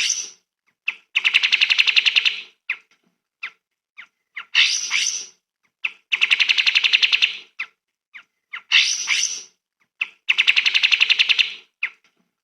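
Songbird song on a repeating loop: a few short sharp chirps, a harsh burst, then a rapid trill of about a dozen notes a second. The phrase comes round about every four seconds, three times in all.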